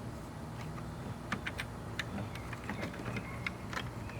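Scattered light clicks and taps of plastic parts and wiring being handled while fitting a car side-mirror's turn-signal assembly, over a steady low hum.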